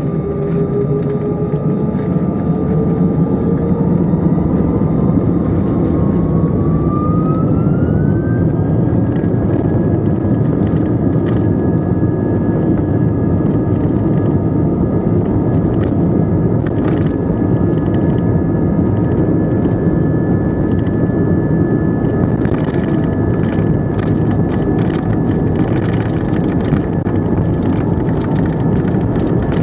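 Airbus A320 cabin noise: a loud, even engine roar with a whine that rises steeply in pitch over a few seconds and then holds steady, as the engines spool up to takeoff thrust. A few short clicks and rattles sound over it in the second half.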